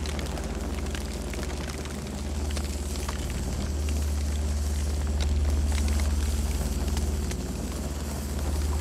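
Campfire burning: irregular crackles and pops of burning wood over a steady low rumble of the flames.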